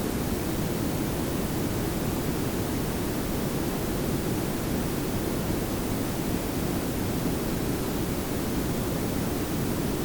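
Steady layered pink and brown noise: an even, unbroken hiss over a deeper low rumble, with no changes.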